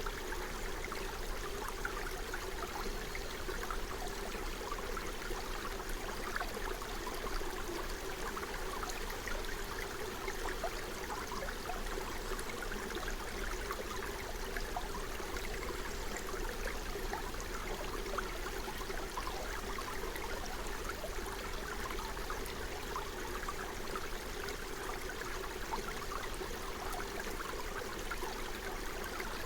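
Forest stream flowing and babbling steadily over stones, a constant rush of water with fine splashes and trickles.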